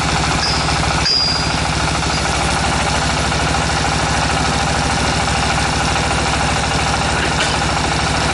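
Tractor engine driving a tractor-mounted water well drilling rig, running steadily with an even low pulsing. Two brief high squeaks come about half a second and a second in.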